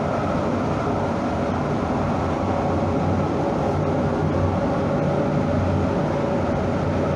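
Rail vehicle running: a steady rumble with a low hum that strengthens near the end.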